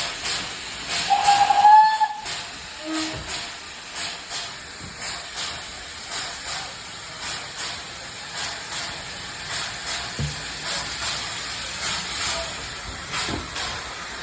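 Steam locomotive whistle blowing once, about one to two seconds in, then the regular chuffing exhaust beats of the TKh-class steam tank engine TKH 5374 working a train, about one and a half beats a second, with the hiss of steam.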